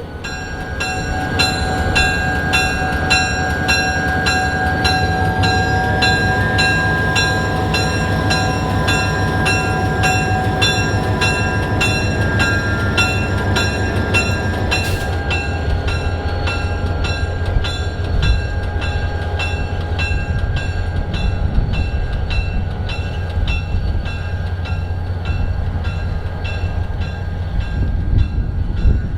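Diesel-hauled passenger train running by, its engine rumbling steadily, while a bell rings evenly about twice a second. A steady whine rises in pitch several seconds in.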